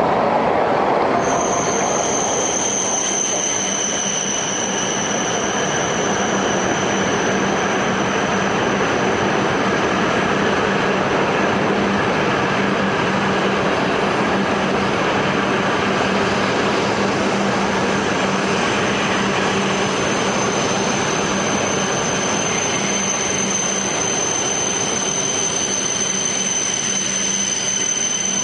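E5 series Shinkansen train running slowly into the platform and braking, its wheels rumbling steadily. A steady high-pitched squeal starts about a second in and holds, with a low steady hum underneath.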